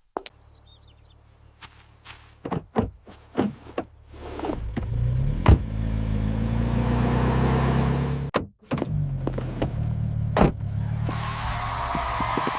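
Car engine sound: a series of clicks and knocks, then the engine running and rising in pitch. It drops out briefly about eight seconds in, then runs on steadily.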